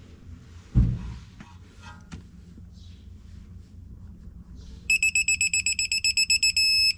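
A digital torque wrench beeping fast and high-pitched from about five seconds in, briefly merging into one held tone near the end: the signal that the set torque of 65 has been reached on the lower control arm bolt. About a second in there is a single dull thump, the loudest moment.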